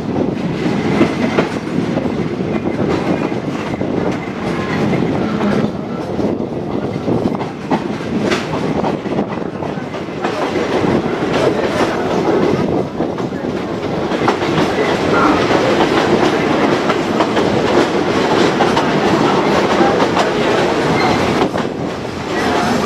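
Moving passenger train heard from an open carriage window: a steady rumble of the wheels on the rails, with repeated clickety-clack clicks over the rail joints.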